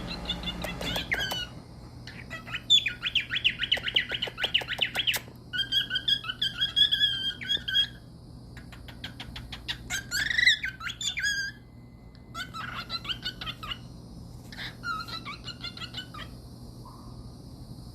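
Pet parrot squawking and chattering in about six bouts of fast, repeated, high-pitched calls, each lasting a second or two, with short pauses between them.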